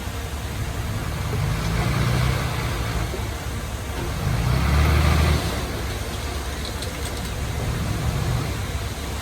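Heavy earthmoving machine's diesel engine running with a low rumble, swelling louder twice: briefly about two seconds in, and again for about a second near the middle.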